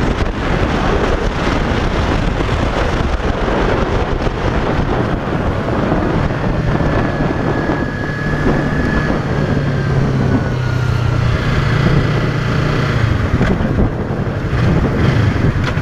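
Yamaha YZF-R3's parallel-twin engine running under wind noise buffeting the microphone. A steady low engine hum settles in about six seconds in.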